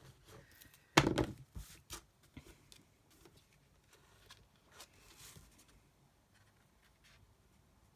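Crafting supplies being handled on a desk: a single loud thump about a second in, followed by a quick run of smaller knocks and paper rustles, then faint handling noises.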